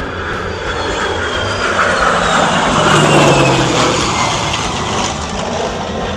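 An aircraft flying past: engine noise swells to a peak about three seconds in and then eases off, with a high whine that slowly falls in pitch as it passes.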